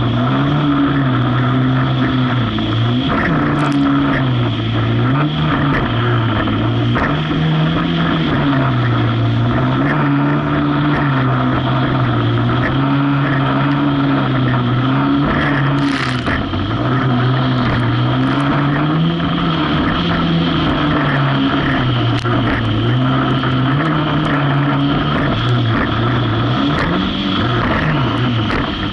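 Jet ski engine running hard, its pitch rising and falling again and again as the throttle and load change over choppy water.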